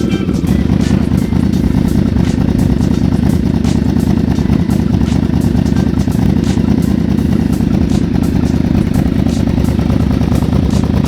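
Yamaha Vmax V4 motorcycle engine idling steadily while it warms up after a cold start.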